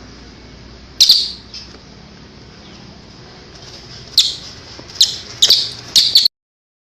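Recorded calls of kerak basi (reed warbler) and cililin birds: one short loud call about a second in, then a quick run of about four calls from four to six seconds, over a steady hiss. The recording cuts off abruptly just after six seconds.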